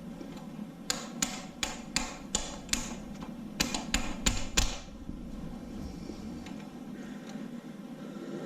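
Sharp taps on metal, about a dozen at roughly three a second, stopping about two-thirds of the way through. They come from knocking at a stuck part to work it out of an LS V8 engine block during teardown.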